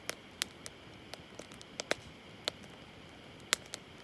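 Wood campfire crackling: irregular sharp pops and snaps, about a dozen, with the loudest near the end.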